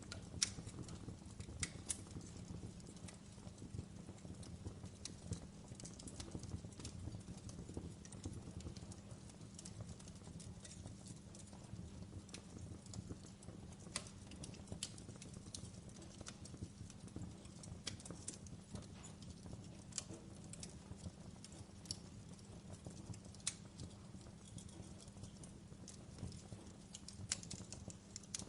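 Wood fire in a fireplace crackling, with sharp pops and snaps at irregular intervals over a steady low rumble.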